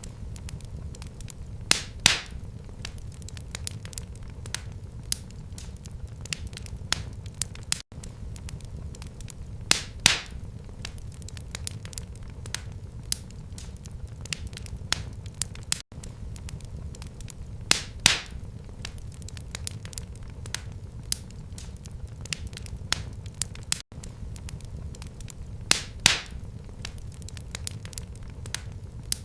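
Wood fire crackling in a fireplace: a steady low rumble with many small snaps and a sharper pop about every eight seconds. The same few seconds of crackling repeat as a loop, with a brief break at each join.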